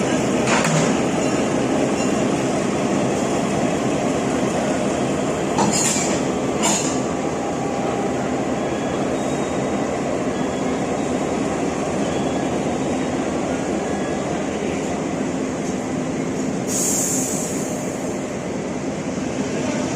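Taiwan Railway R136 diesel-electric locomotive moving off on its own after being uncoupled, a steady running rumble with a few wheel-on-rail clicks about six seconds in. A short burst of air hiss comes near the end.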